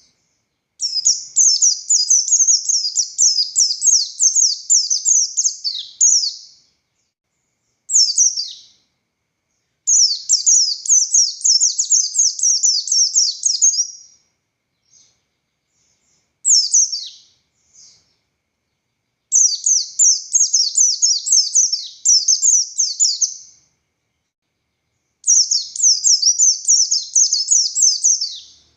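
A pleci buxtoni white-eye singing its rapid, high-pitched 'ngalas' song: four long runs of quick falling notes, each a few seconds long, with two short phrases and brief pauses between them.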